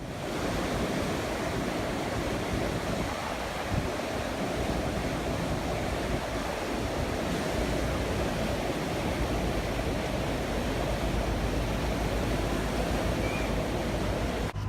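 Steady rushing noise with no distinct events, starting and cutting off abruptly.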